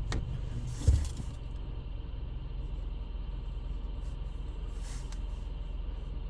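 Vehicle engine running with a steady low hum, heard from inside the vehicle, with a single thump about a second in.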